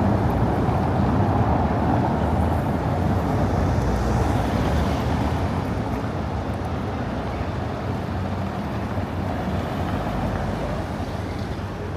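Steady outdoor city ambience: an even, low rumble of traffic and crowd noise that grows slightly quieter toward the end.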